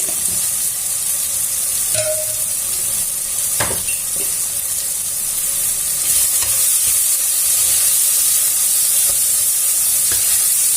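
Onion and tomato masala sizzling in an oiled pan as the chilli and turmeric powder are stirred in, with a few knocks and scrapes of the spoon against the pan.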